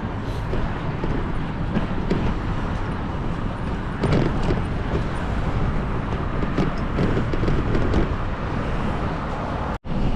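Wind buffeting the microphone and road noise from a mountain bike being ridden along a street, with a few knocks and rattles. The sound cuts out for a moment near the end.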